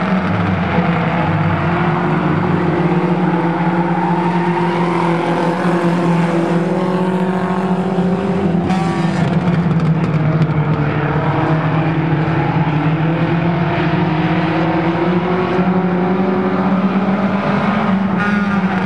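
Several race car engines running hard together at racing speed: a loud, steady, layered drone of engines at slightly different pitches.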